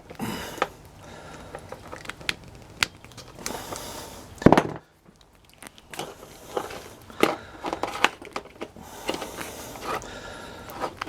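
Diagonal cutters biting into and working the tough vinyl jacket off copper wire: scattered clicks and crinkling, with one loud snap about four and a half seconds in.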